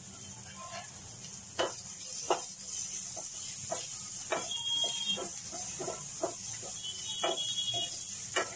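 Onion, tomato and spice masala sizzling in a non-stick kadai while a spatula stirs and scrapes it, with a few sharp taps of the spatula against the pan.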